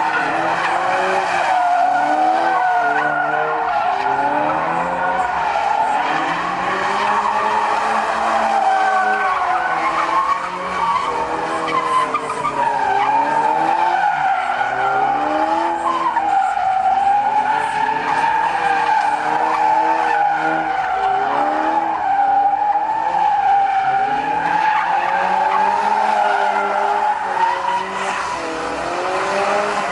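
Car tyres squealing in one long continuous skid, the pitch wavering, with the car's engine revving up and down underneath.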